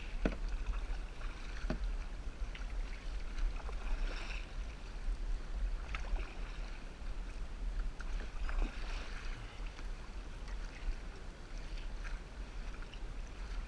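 Water sloshing around a kayak at sea, with a few brief splashes or knocks, over a steady low rumble.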